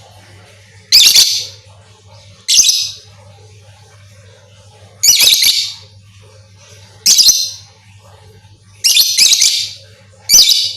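Lovebird giving loud, shrill chirping calls in six short bursts of about half a second each, a second or two apart, over a faint steady low hum.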